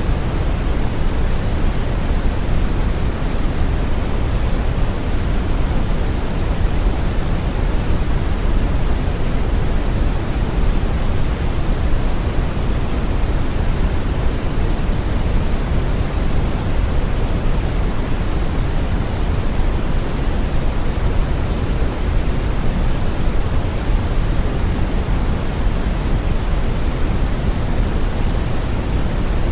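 Steady brown noise: an even, deep rumbling hiss weighted toward the low end, unchanging throughout.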